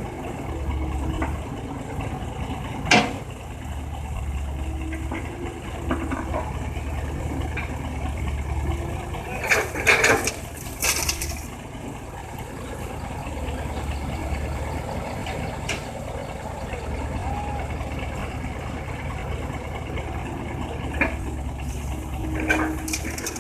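Excavator diesel engine running steadily while loading crushed rock into a dump truck. There is a sharp knock about three seconds in and a burst of crunching rock around ten seconds in.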